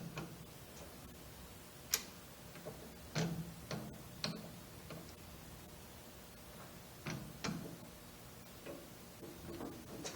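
Scattered light metal clicks and taps, about a dozen over several seconds, as a small steel spacer is set in a lathe chuck and the chuck is tightened. The lathe is not running.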